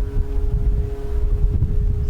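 Wind buffeting the microphone with a ragged low rumble, over a steady mechanical hum that holds one pitch.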